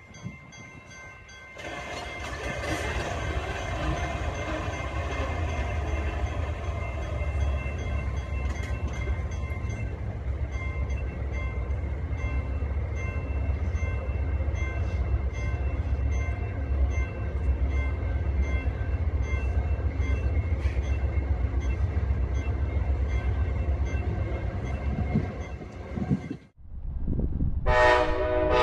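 Amtrak diesel passenger locomotive running with a steady low rumble as the train pulls slowly into the station. Near the end, after a sudden break, a locomotive air horn sounds loudly.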